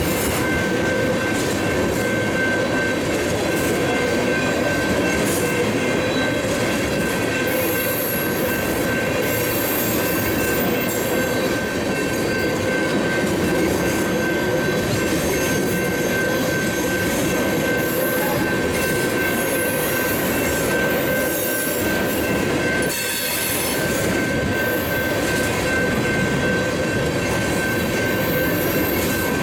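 Freight tank cars rolling past over a grade crossing: a steady rumble and clatter of steel wheels on rail, with a high, steady wheel squeal over it.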